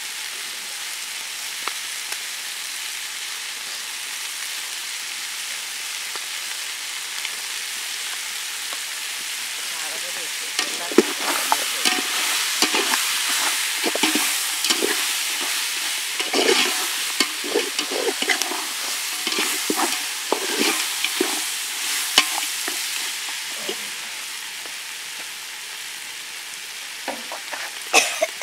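Mutton sizzling as it fries in a large metal pot, a steady hiss. From about ten seconds in, a perforated metal ladle stirs the meat, scraping and clattering against the pot for roughly fourteen seconds, with a few more clatters near the end.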